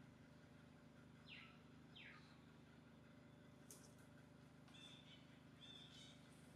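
Faint bird calls over quiet outdoor background: two quick descending calls, then a few short repeated chirps in the second half.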